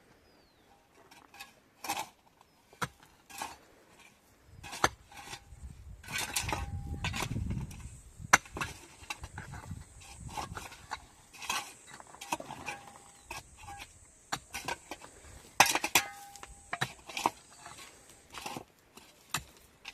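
Irregular clinks and knocks of small hard objects being handled, with a low rumble about six to eight seconds in.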